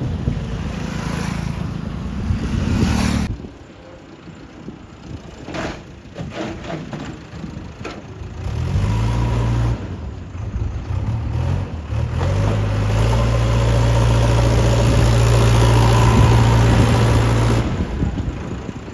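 Heavy diesel engine working under load, revving up and down. It runs high for the first three seconds and then drops off suddenly. It climbs again about halfway through, holds high for several seconds, and falls back near the end.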